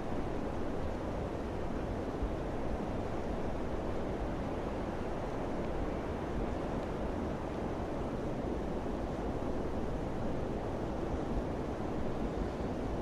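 Wind blowing steadily, a low rushing noise.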